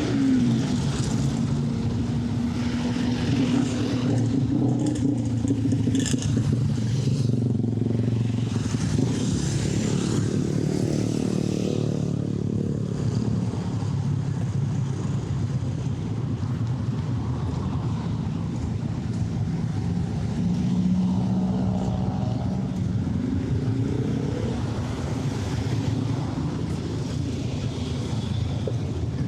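City street traffic: cars and motorcycles running past, a steady engine hum whose pitch rises and falls as vehicles go by.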